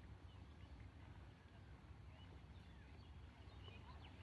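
Near silence with faint, scattered short bird chirps over a low steady hum.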